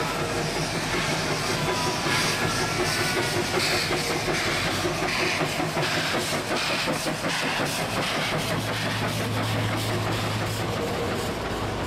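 Narrow-gauge Puffing Billy Railway train running, its wheels clicking over the rail joints through a steady rushing noise. A steady low hum joins about eight and a half seconds in.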